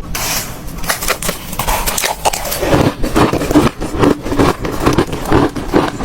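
Hard ice being bitten and crunched between the teeth: a run of sharp crunches, lighter at first and heavier and more regular from about halfway through, a couple each second.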